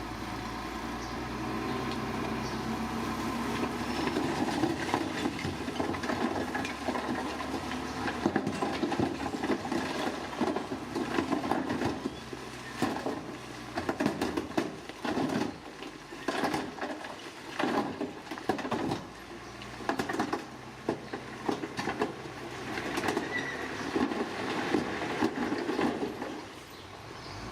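Heavy diesel construction machinery running: a steady engine hum at first, then, about halfway through, loud surges with clatter and grinding about once a second.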